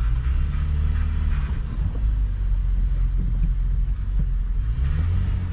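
Car engine running with a low, steady rumble; its pitch rises a little near the end.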